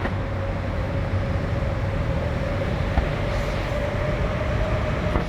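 Ford Ranger pickup's engine idling steadily, a low rumble with a constant whine over it, and a single click about three seconds in.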